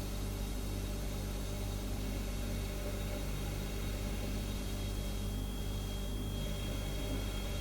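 Refrigerator humming steadily: a low, even hum of several layered tones under a soft hiss. A thin high tone joins about five seconds in and holds.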